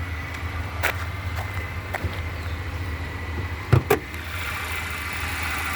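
2014 Chevy Impala's 2.5-litre Ecotec four-cylinder idling quietly with a steady low hum. A few light clicks are heard, and two sharp knocks come close together about two-thirds of the way through.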